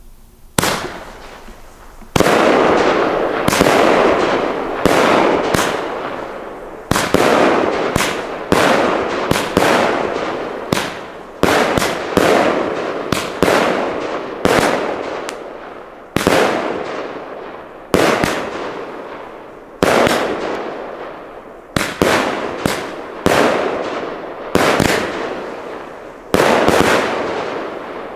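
Firework battery (cake) firing shot after shot into the sky, a couple of dozen sharp reports at uneven intervals of about half a second to a second and a half, each trailing off over about a second as its burst fades.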